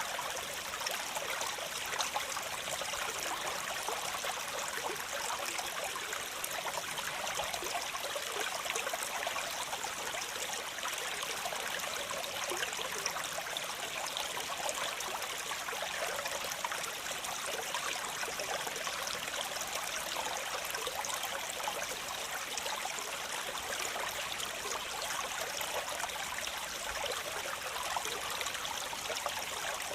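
Waterfall: water pouring and splashing in a steady, unbroken rush. The sound is mostly high, with little deep rumble.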